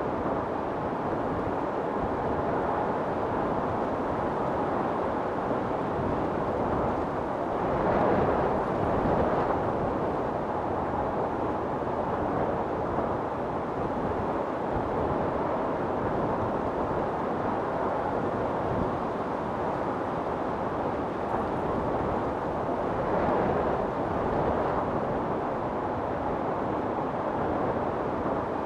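Storm wind blowing steadily, swelling into stronger gusts about eight seconds in and again about twenty-three seconds in.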